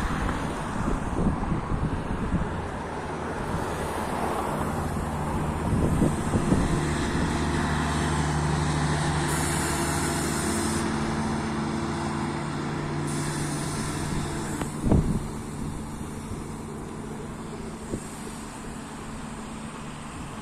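Renfe Class 599 diesel multiple unit passing slowly, its diesel engine humming steadily, with wind on the microphone at first. Two short high hisses come midway, and there is a single sharp knock about fifteen seconds in.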